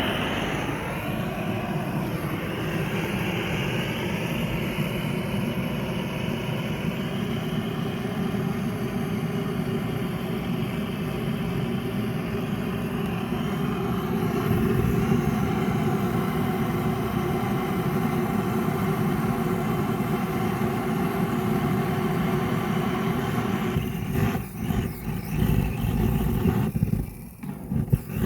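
Handheld gas torch flame roaring steadily. Near the end the roar breaks up and drops out several times.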